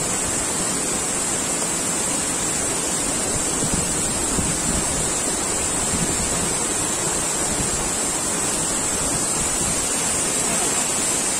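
Waterfall's falling water rushing in a steady, unbroken roar.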